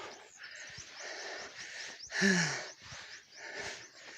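A hiker's heavy breathing while climbing a steep uphill path: rhythmic noisy breaths about once a second, the loudest one about two seconds in with a short voiced gasp.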